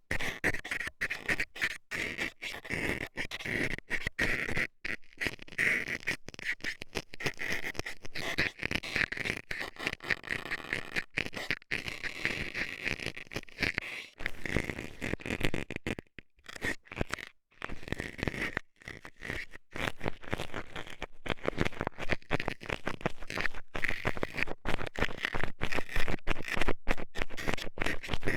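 Metal dental scaler scraping and poking in the ear close to the microphone: a dense run of rapid, irregular scratchy strokes with short breaks, easing off briefly about 16 seconds in before picking up again.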